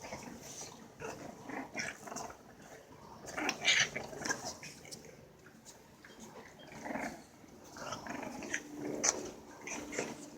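Six-week-old Frenchton puppies making small, irregular growls and grunts, with a longer held pitched call near the end.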